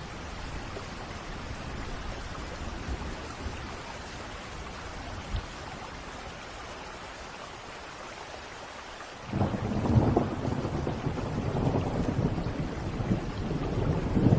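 Steady rain falling, with a crack and a long rumble of thunder that begins suddenly about two-thirds of the way through and goes on to the end.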